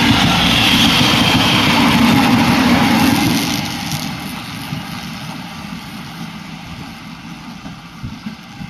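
Electric train passing by: loud running and wheel-on-rail noise for about three and a half seconds, then fading steadily as the train moves away.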